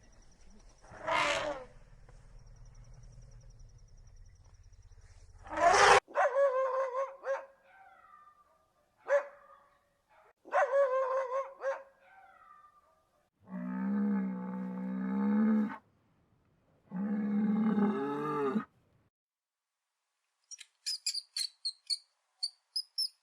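A sequence of different animal calls: several pitched calls, including two long, strong ones in the middle, then a quick run of high chirps near the end.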